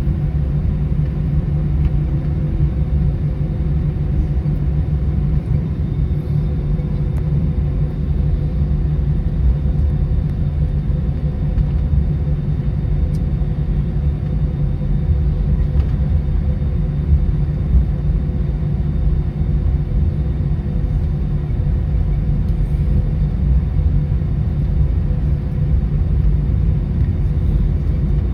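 Steady engine drone and rumble inside the cabin of a United Airbus A319, with a few steady hums over a deep rumble and no rise or fall in pitch.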